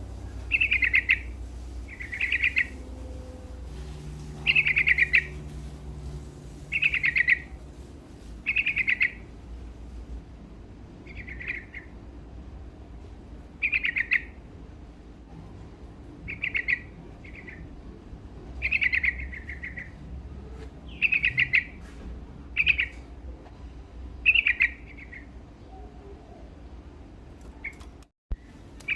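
Yellow-vented bulbul (trucukan) singing: short, bright phrases repeated about every two seconds, over a faint low steady hum.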